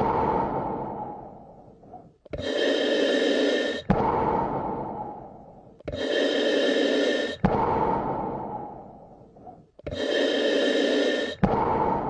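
Slow, deep human breathing, a full breath about every four seconds. Each cycle is an even, steady hiss that stops sharply, followed by a longer one that fades away.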